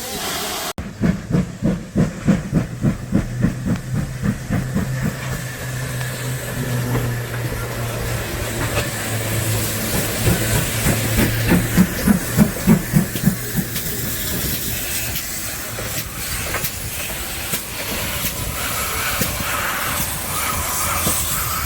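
Steam locomotive working a train, its exhaust chuffing in even beats about three a second, with a steady hiss of steam. The beats fade out midway and then return before giving way to hiss.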